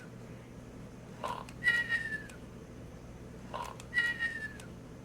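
Hasbro FurReal Friends Squawkers McCaw toy parrot in sleep mode, playing its cartoon-style snore twice: a short rasping intake followed by a high, falling whistle.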